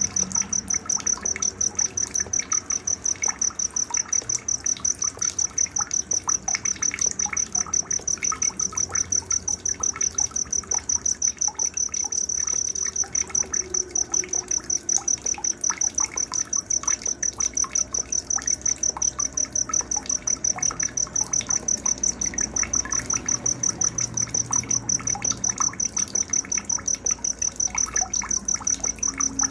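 Night insect, a cricket, chirping in a fast, even, high-pitched pulse without a break, with scattered bird chirps underneath.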